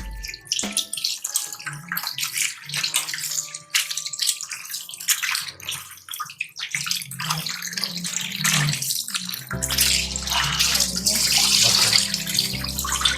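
Raw chicken pieces being washed by hand in a bowl of water, with irregular splashing and sloshing. About ten seconds in, a steadier, louder rush of water sets in, with a low steady hum underneath.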